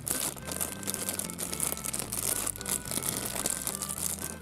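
Clear plastic wrapper crinkling and crackling as hands pull it open and peel it off a small toy figure.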